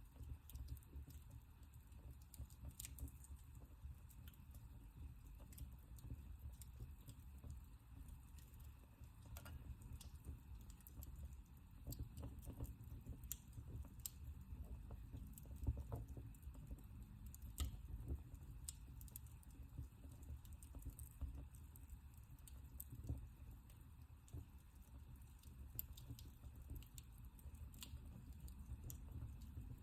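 Wood fire in a fireplace crackling faintly: scattered small pops and snaps over a steady low rumble.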